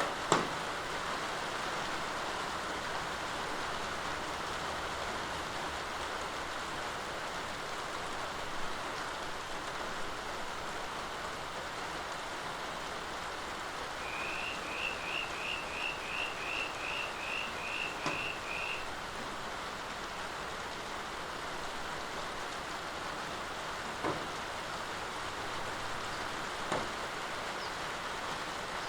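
Steady rain falling, with a few sharp drips or taps standing out now and then. Around the middle, a rapid run of about a dozen short high chirps.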